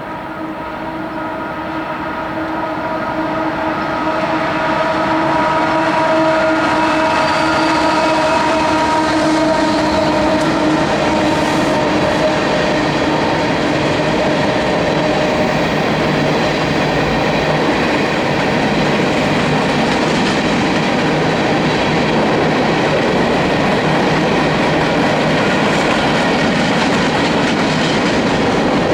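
Union Pacific freight locomotive sounding its multi-note horn as the train approaches, the horn fading out about halfway through. The train grows louder over the first few seconds, then passes with a steady roar of wheels on rail and some clickety-clack.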